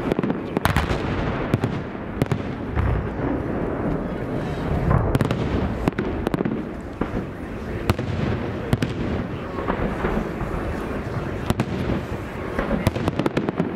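Fireworks display: aerial shells bursting in quick, irregular succession, sharp bangs over a continuous rumble.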